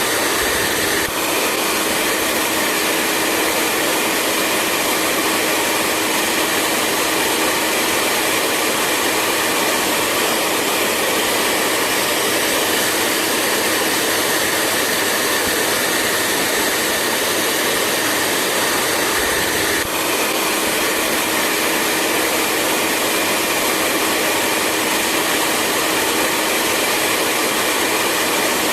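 Hair dryer running steadily: an even blowing rush with a faint steady whine, broken only by brief dips about a second in and again about twenty seconds in.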